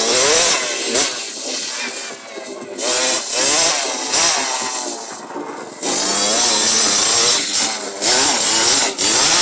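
Youth 65 cc two-stroke motocross bikes revving hard as they ride past, the high engine notes rising and falling with throttle and gear changes, more than one bike at once, with brief dips in loudness about two and five seconds in.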